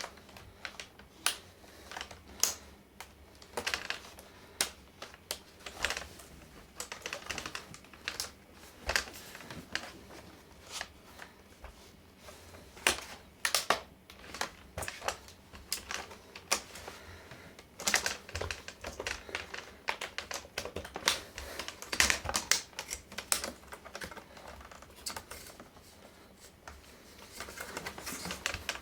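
Irregular plastic clicks, ticks and snaps from working the laptop's plastic screen bezel and hinge covers loose by hand, with a few louder snaps among them.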